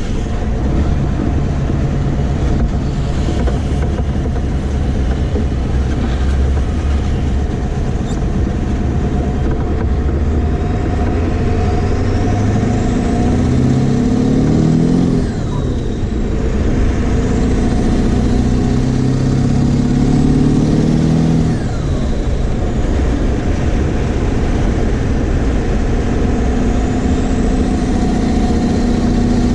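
1996 Ford F-350's 7.3 L Powerstroke turbo-diesel V8, fitted with 160/30 injectors, pulling through the gears: after steady running, the engine note climbs twice and drops sharply at each upshift, with a high whine rising alongside, then settles into a steady cruise.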